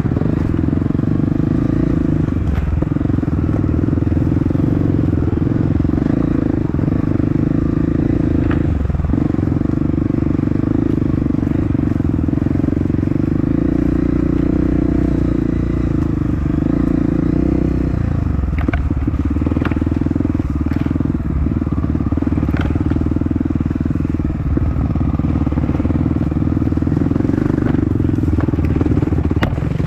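Off-road motorcycle engine running steadily under throttle, with its pitch dropping briefly a few times as the throttle eases or gears change. Scattered sharp clicks and knocks are heard over the engine.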